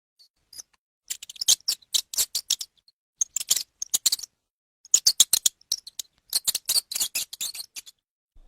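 An animal's rapid, high-pitched chattering calls: quick clicks and chirps in four bursts, each about a second long.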